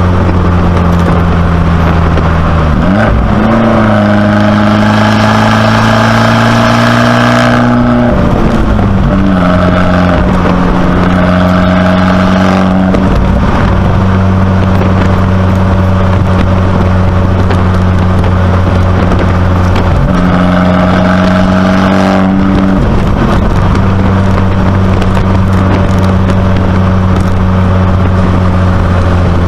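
2019 Abarth 595C Competizione's turbocharged four-cylinder engine, heard through a Record Monza exhaust, running steadily while driving. The engine note rises about three seconds in, holds, then drops back at about eight seconds, and does so again briefly around twenty seconds.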